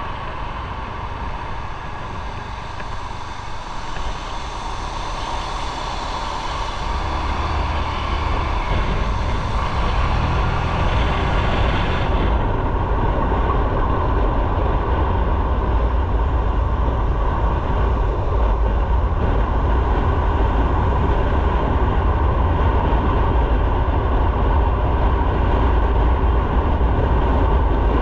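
Motorcycle on the move: steady wind rush mixed with engine and road noise, growing gradually louder over the first dozen seconds or so, then holding steady.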